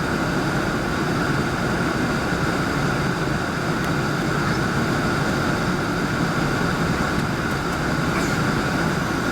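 Steady cabin noise inside an Airbus A380: the engines running with a low, even rumble and a steady whine at constant level.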